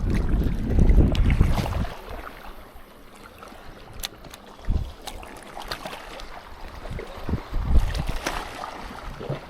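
Outdoor wind buffeting the microphone, heaviest in the first two seconds and again near the end, with a few scattered small clicks.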